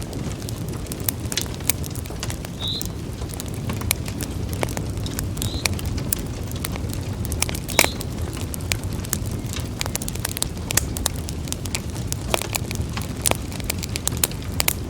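Wood fire in a fireplace crackling, with frequent irregular sharp pops over a steady low rumble; one louder pop about eight seconds in.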